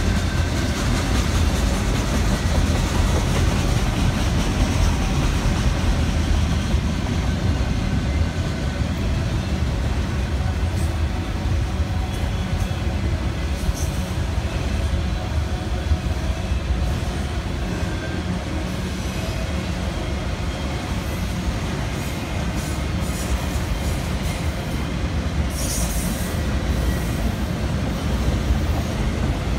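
Norfolk Southern freight train of autorack cars rolling past: a steady rumble of wheels on rail, with thin wheel squeals now and then and a short high squeal near the end.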